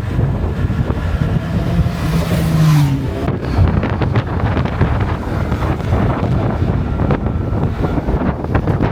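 Wind buffeting the microphone over the low rumble of a motorbike ride, with a brief engine note that rises and then falls away around two to three seconds in.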